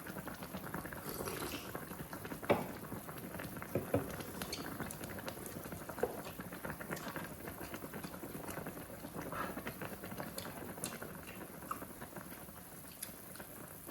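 Hotpot broth bubbling at a boil, with scattered light clicks throughout.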